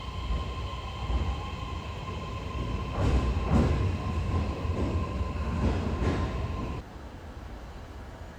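Electric commuter train running on the rails: a low rumble with a steady whine and a run of rhythmic wheel clacks over the rail joints. It drops off suddenly near the end, leaving a faint hum.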